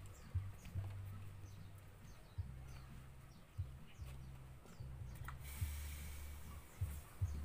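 Birds chirping in short, repeated falling calls over a low, uneven rumble, with a stretch of hiss about five and a half seconds in.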